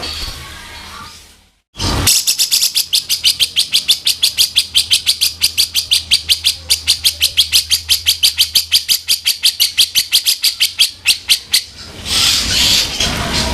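Cucak jenggot (grey-cheeked bulbul) giving its harsh 'kasaran' chatter: a long, fast run of rasping notes at about eight a second. This breaks into a denser, scratchier scolding near the end.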